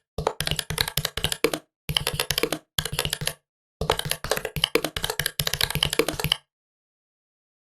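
Fast typing on a Huawei Matebook 13 laptop keyboard: rapid runs of key clicks in several spurts with brief pauses, stopping a little over six seconds in.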